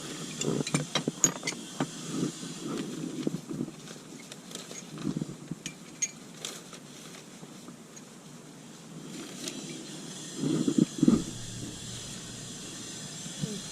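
Motorcycle parts and containers being rummaged through and handled: scattered clinks, knocks and rattles, busiest early on, with a louder cluster of knocks about eleven seconds in.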